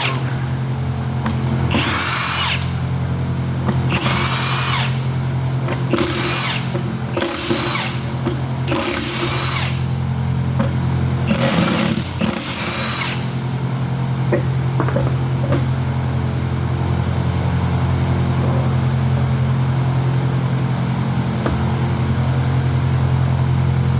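Power tool run in short bursts, about ten over the first dozen seconds, over a steady low machine hum.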